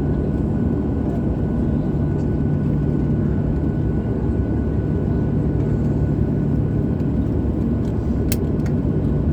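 Steady cabin drone inside a Boeing 737-800 in flight: CFM56-7B engine noise and airflow with a low hum. A light click about eight seconds in.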